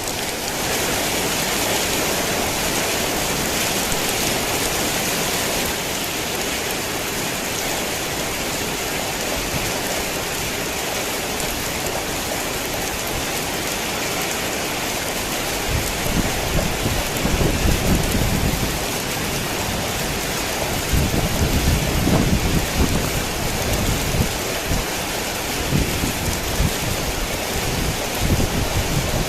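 Heavy rain falling steadily, with low rolling rumbles of thunder coming and going through the second half.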